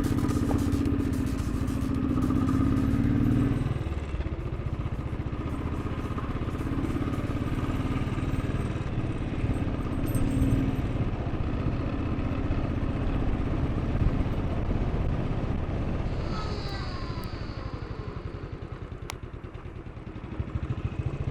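Royal Enfield motorcycle engine running steadily under way, easing off and getting quieter a few seconds before the end.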